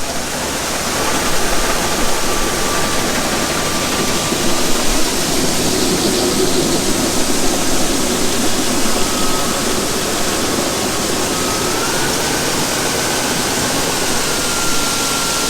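Grain cart's swing-away auger running under tractor PTO drive, a loud steady rushing noise with a thin whine that steps up in pitch near the end.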